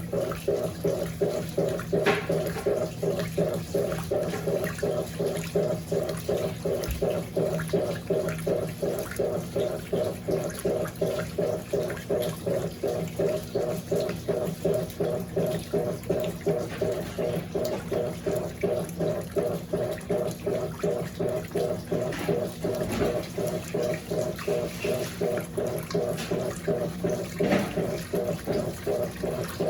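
Electrolux LAC16 top-loading washing machine in its final agitation on a high water level: the agitator churns the water and clothes with a fast, even pulsing as it swings back and forth, over the hum of its drive motor, a 1/4 hp WEG motor taken from an LT13B.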